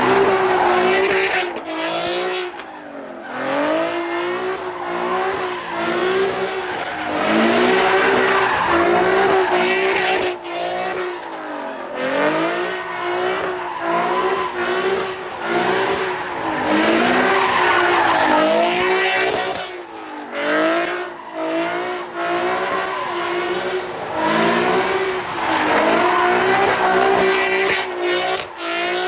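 A car doing donuts at a street meet. The engine revs up and down over and over, about once a second, with tyre squeal throughout.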